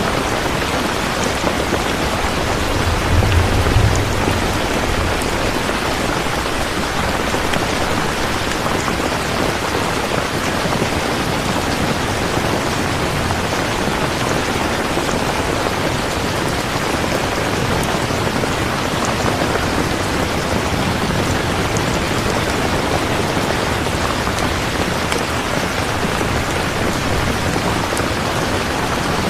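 Steady, dense rain falling, with a brief low rumble about three seconds in.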